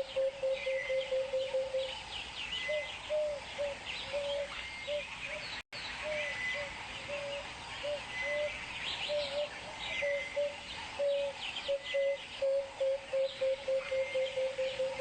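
Wild birds calling: a low note repeated in quick runs of two or three a second over high twittering chirps. All sound drops out for a moment a little before halfway.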